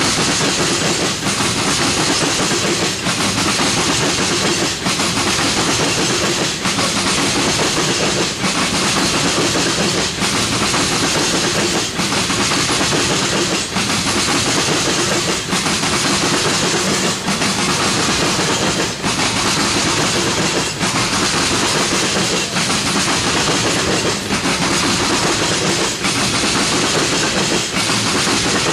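Railroad tank cars of a freight oil train rolling past close by: a steady, loud rush of steel wheels on rail, with a regular beat about every two seconds as each car goes by.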